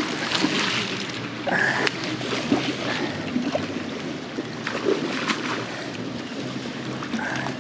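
River water rushing and splashing, with scattered small splashes and knocks and a faint low hum underneath.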